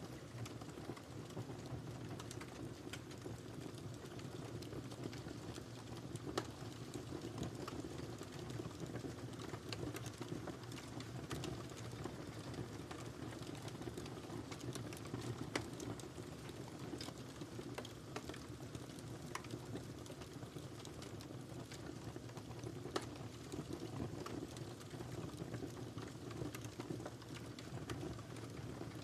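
Wood fire burning in a fireplace: a steady low rush of flames with constant small crackles and a few louder pops.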